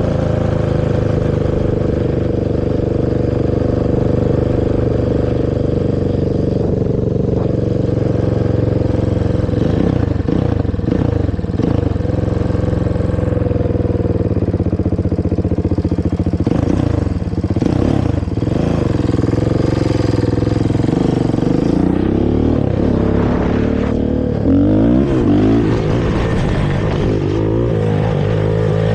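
Honda TRX450R quad's single-cylinder four-stroke engine running through its stock exhaust while being ridden, holding steady revs with the throttle opened and closed several times so the pitch rises and falls, most around the middle and near the end.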